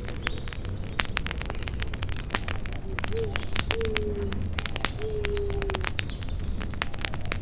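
Campfire crackling: frequent sharp pops and snaps over a steady low rumble of burning wood. In the middle, a few short, low hooting calls sound over the fire.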